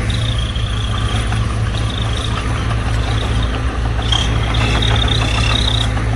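Heavy earthmoving machine's diesel engine running steadily, with a high, thin squeal that comes and goes.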